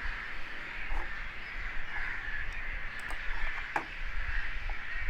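Steady background hiss with a low hum, broken by a few short clicks about a second in, about three seconds in and near four seconds.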